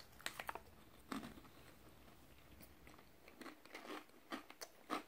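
Faint, scattered crunches of a person chewing a mouthful of corn chips (Jack 'n Jill Chippy garlic and vinegar). A couple of soft crunches come at the start, then a quiet stretch, then several more near the end.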